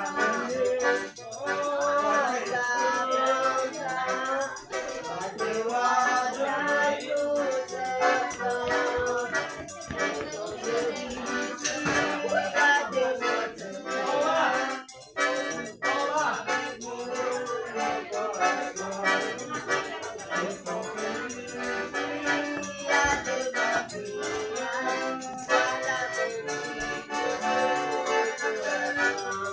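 Accordion music over a steady shaker rhythm, the kind of forró played at a Brazilian bonfire party.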